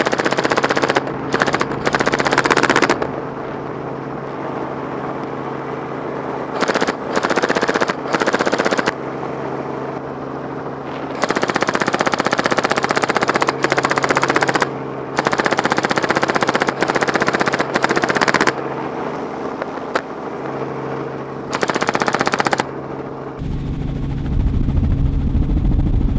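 Airsoft guns firing on full auto in long sustained bursts of one to three seconds, about five bursts with short gaps between them, over a steady mechanical hum. A heavier low rumble comes in near the end.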